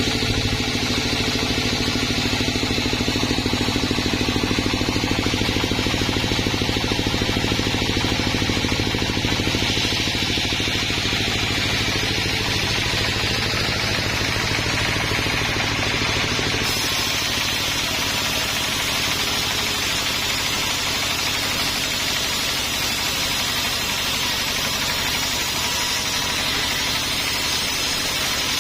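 A sawmill's engine running steadily. About seventeen seconds in the sound shifts: the low hum drops and a higher hiss grows louder.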